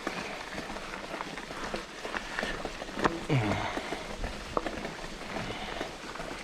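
Mountain bike rolling along a dirt trail: tyres crunching over dirt and leaves, with scattered clicks and rattles from the bike. A sharp knock comes about three seconds in, followed by a short falling tone.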